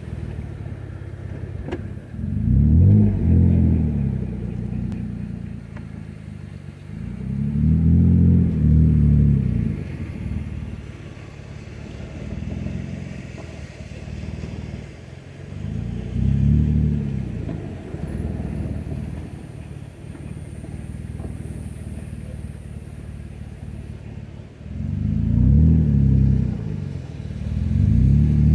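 Jeep engine driving off-road over rough, rocky sand, revving up and easing back off in repeated surges every few seconds, with steadier running between them.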